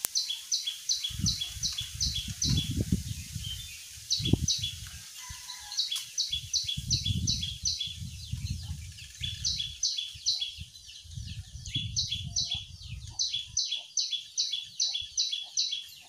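A prenjak calling: quick runs of short, high, evenly spaced chirps, about four a second, stopping and starting again several times. Low rumbles come and go underneath.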